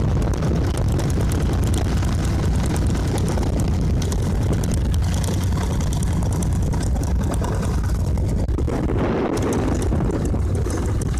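Fishing boat engine running steadily with a low, even rumble.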